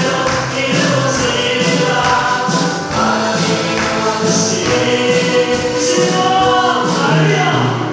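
A church praise team singing a gospel worship song in chorus, with band accompaniment keeping a steady beat.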